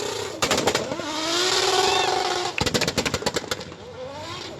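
A vehicle engine being revved hard and held at high revs, with quick strings of sharp bangs from the exhaust, at about ten a second, around the start and again just after halfway.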